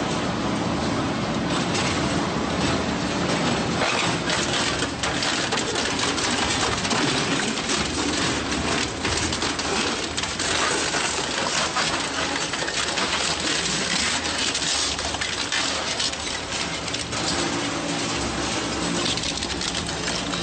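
Industrial metal shredder tearing through scrap metal: a continuous dense grinding and crunching, with many sharp cracks.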